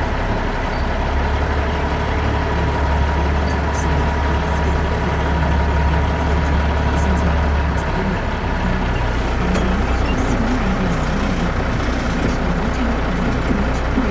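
Heavy truck on the road: steady engine and road noise, with the low rumble changing about eight seconds in.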